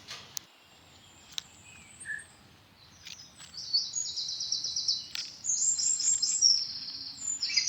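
Birds chirping in quick, high-pitched trills, faint at first, then louder and more frequent from about three seconds in. Two faint clicks come in the first second and a half.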